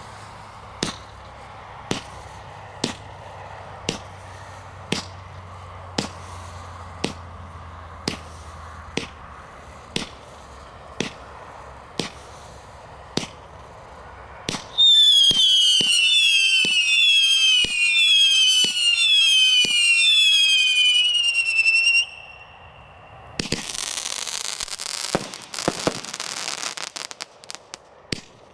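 Firework cake firing shot after shot, about once a second at first. About halfway through comes a loud run of falling whistles, one after another for about seven seconds. After a brief lull it goes into a dense crackling with scattered pops.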